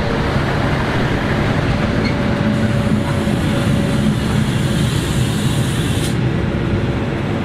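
Train of two E.652 electric locomotives with the Sirter 2.0 rail-diagnostic vehicle between them, passing close by and arriving in the station: a steady rumble of wheels on rails and running gear with a few humming tones. A high hiss joins a couple of seconds in and cuts off suddenly about six seconds in.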